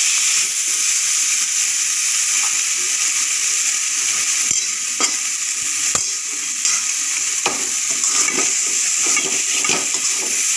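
Cut taro stolons (kochur loti) sizzling as they fry in oil in a metal kadai, stirred with a spatula. Several short scrapes and knocks of the spatula against the pan come through over the steady sizzle in the second half.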